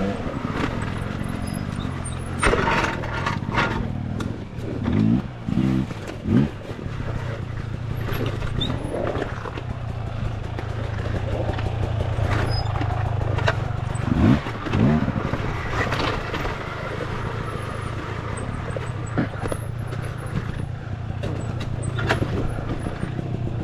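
Dirt bike engine running steadily at low speed, with a few knocks and clatters in the first few seconds and a short rise and fall in pitch about two thirds of the way through.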